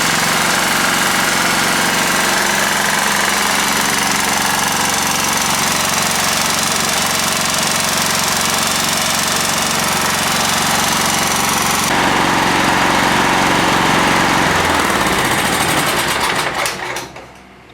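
Single-cylinder engine of a John Deere L160 lawn tractor running steadily, its connecting-rod knock from a worn crankshaft now toned down by oil stabilizer in the crankcase, as the owner hears it. Near the end it is shut off and winds down to a stop.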